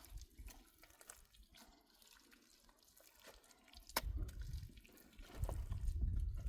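Water dripping and splashing, with scattered small clicks. A low rumble comes in about four seconds in and grows louder near the end.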